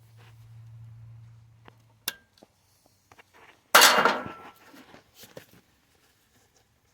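Metal tools and parts clinking: a sharp metallic tick with a short ring about two seconds in, then a loud ringing clatter of metal just before the four-second mark and a few lighter ticks after it. A low steady hum cuts off at about the time of the first tick.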